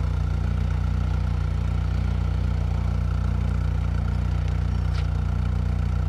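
Car engine running, a steady low drone heard from inside the vehicle's cabin.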